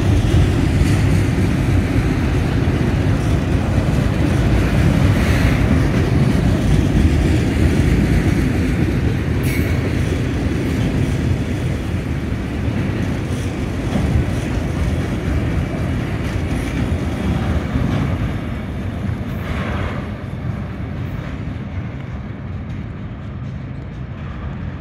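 Autorack freight cars rolling past at close range, a steady rumble and rattle of wheels on the rails. It fades away over the last several seconds as the end of the train passes and moves off.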